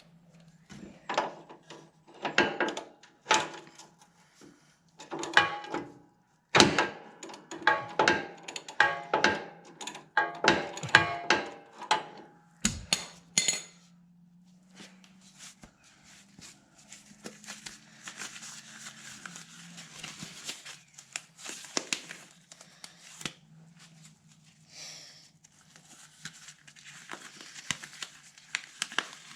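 Metal tools clinking and knocking as a wrench loosens the mower's oil drain plug, which is held with vise grips, for about the first thirteen seconds. Then a steady rushing noise follows as the engine oil drains out, with a few scattered clicks.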